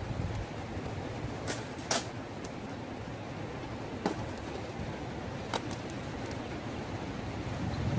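Campfire crackling, with a few sharp pops, over a steady rumble of wind.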